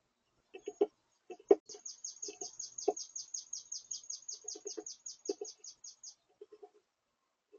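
A songbird singing a fast, even trill of high, down-slurred notes, about six or seven a second, lasting several seconds. Short, lower sounds come in small clusters around it.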